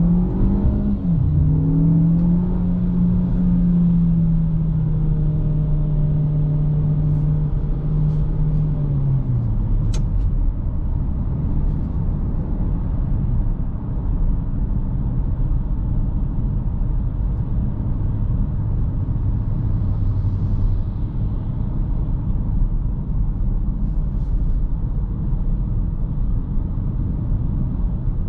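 Chery Tiggo 8's 1.6 turbocharged petrol engine pulling the car along: its pitch rises, dips briefly at a gearshift about a second in, holds steady, then falls away around ten seconds in as the car eases off. Steady road and tyre noise runs underneath, with a single sharp click about ten seconds in.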